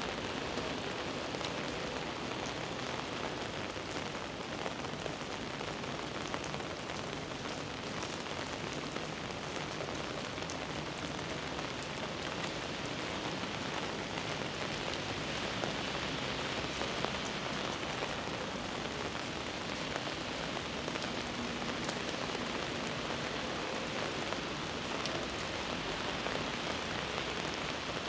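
Heavy rain falling steadily on city streets: an even hiss with small drop ticks scattered through it.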